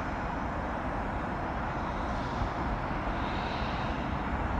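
Steady rumbling of a freight train's cars rolling through the rail yard at a distance, with a faint high tone coming and going in the second half.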